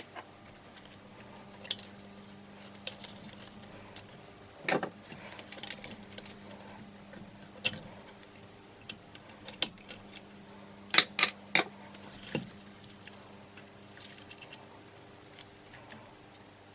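Metal tools and engine parts handled on a workbench: scattered clinks, clicks and knocks, loudest in a quick cluster about eleven seconds in, over a steady low hum.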